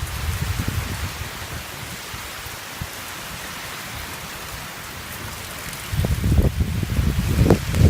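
Storm rain falling in a steady hiss, with wind buffeting the microphone in low rumbling gusts that grow much stronger about six seconds in.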